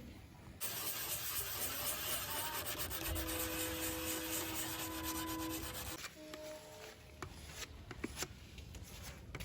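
Sanding on a plastic car bumper: a steady scrubbing rasp that starts just under a second in and stops about six seconds in, followed by quieter scattered clicks and taps.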